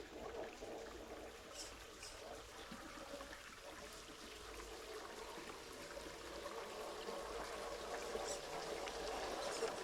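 A small creek waterfall running and splashing steadily, growing slightly louder toward the end.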